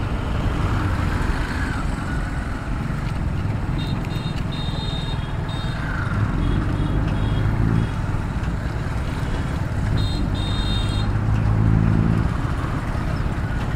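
Motorcycle riding along a highway, with steady engine, tyre and wind noise. The low engine drone swells twice as heavier vehicles come close, and a high-pitched beeping sounds in short pulses twice.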